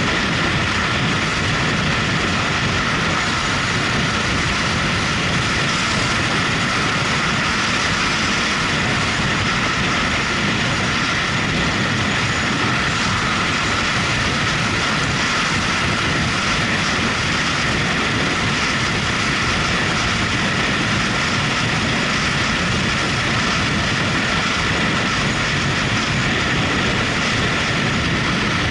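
Motorcycle being ridden at a steady pace: the engine running and the wind and road noise on the microphone, steady and unbroken.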